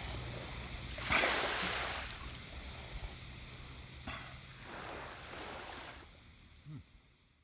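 Small waves washing on the shore, the wash swelling about a second in and again around four to five seconds, then fading away.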